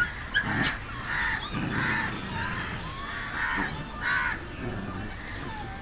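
A string of short, harsh animal calls, about one every half second to a second, fading in the last second.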